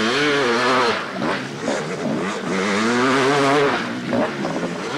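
Motocross bike engine revving hard, its pitch wavering up and down, loudest in about the first second and again around the middle.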